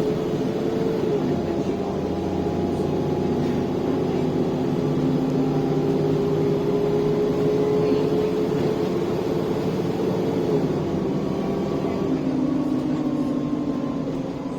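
ADL Enviro 400 double-decker bus engine pulling hard under acceleration, its note climbing slowly and then dropping about ten seconds in as the automatic gearbox changes up, before pulling on at the new gear.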